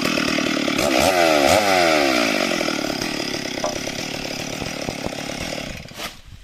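Chainsaw engine with its revs falling away, blipped up twice briefly, then running down and stopping about six seconds in, ending with a sharp click.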